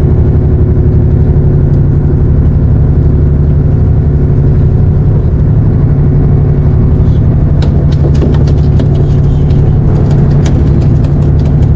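A boat's engine running steadily at a constant low drone. From about seven and a half seconds in, a run of sharp clicks and taps sounds over it.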